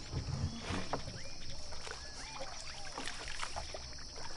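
Wetland ambience: a steady high insect drone under many short, quick chirping calls, with light water sloshing and small splashes.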